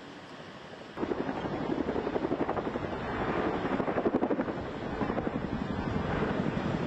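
Helicopter rotor chopping with a fast, even beat, cutting in abruptly about a second in.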